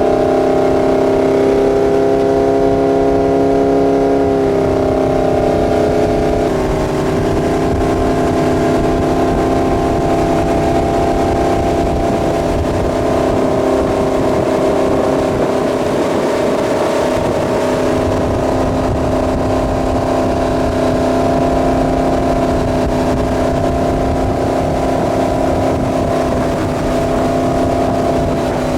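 Centurion Fi25 wake boat's inboard engine running steadily under tow load, its pitch shifting slightly a few seconds in, with rushing water and wind underneath.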